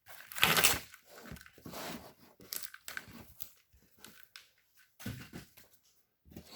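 Brittle, dry-rotted plastic split loom crackling and tearing in irregular bursts as it is pulled off an engine wiring harness.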